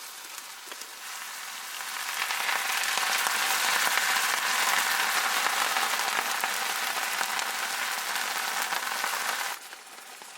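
Butter sizzling hard in a cast iron pan over hot wood coals, a steady hiss that swells over the first couple of seconds and drops away suddenly near the end.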